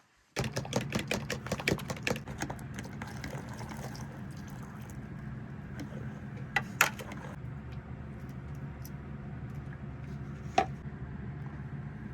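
A small motor switches on about half a second in and runs steadily with an even hum, with rapid clicking and rattling over the first few seconds and a few sharp clicks later.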